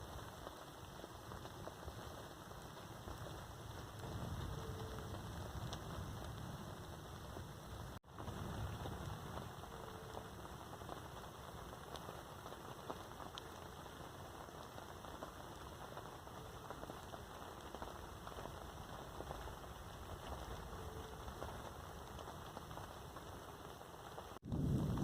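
Rain falling steadily, with single drops ticking, under a low rumble that swells now and then.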